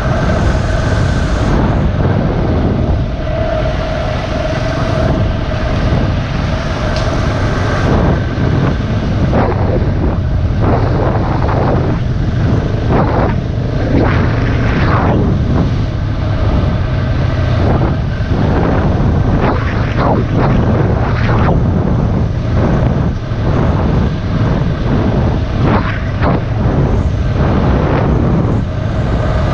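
Single-cylinder dirt bike engine running steadily while riding.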